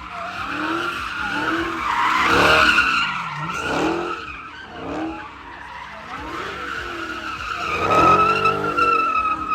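A car doing donuts, its tyres squealing steadily while the engine revs up and down again and again. The squeal is loudest about two seconds in and again near the end.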